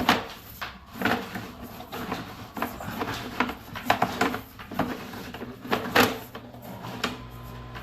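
Irregular knocks and clatter from a sewer inspection camera and its push cable being fed down a drain line, about a dozen in a few seconds. A steady low hum comes in near the end.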